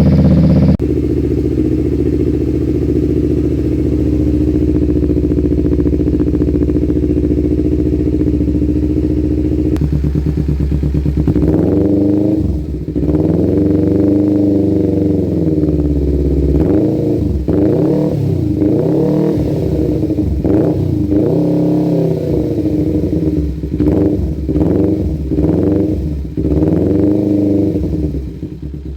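Kawasaki Ninja 250 FI motorcycle engine running through an aftermarket exhaust. It idles steadily, then from about ten seconds in it is revved again and again, the pitch rising and falling with each blip.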